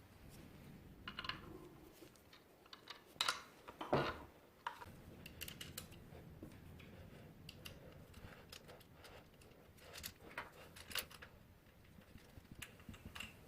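Light, irregular clicks and knocks of small parts and hand tools being handled during reassembly of a motorised skateboard.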